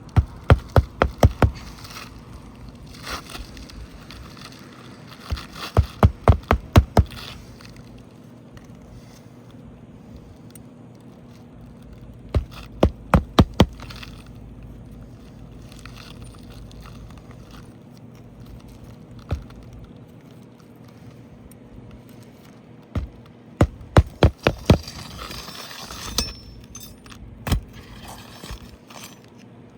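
Hammer driving roofing nails into a shingle: several runs of five or six quick sharp blows, each run a second or so long, with a few single knocks between.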